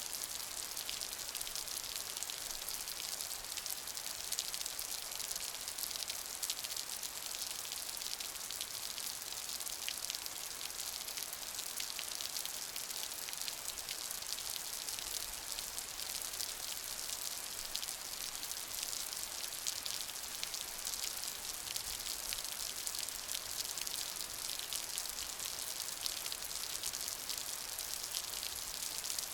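Steady rain, a dense hiss of many drops striking a surface, with close individual drops ticking throughout.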